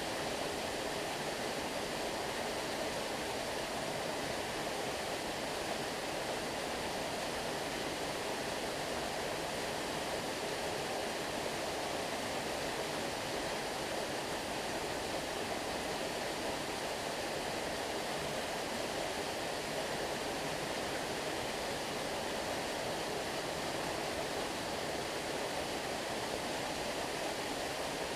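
Steady rush of flowing stream water, an even unbroken wash of sound with no separate splashes.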